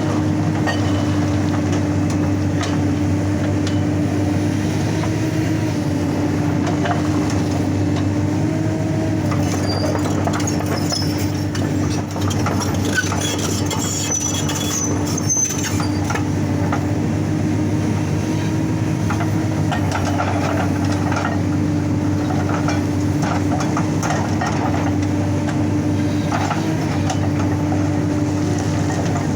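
Excavator's diesel engine running steadily under load while its hydraulic rock breaker hammers with rapid chattering blows, with high metallic squeals about ten to sixteen seconds in.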